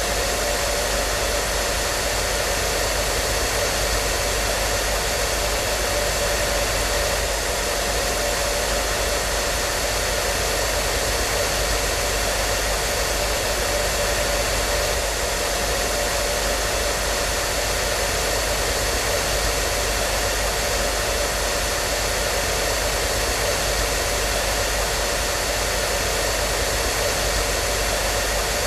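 Hair dryer running continuously at a steady speed: an even rushing air noise with a steady motor hum under it, unchanging throughout.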